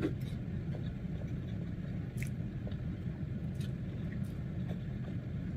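A person chewing a mouthful of spaghetti close to the microphone, with wet mouth sounds and a few faint clicks, over a steady low rumble.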